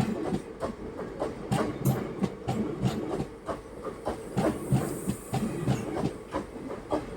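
Passenger express train running, its wheels clattering over rail joints in a quick, uneven run of knocks over a steady rumble, with a faint hiss around the middle.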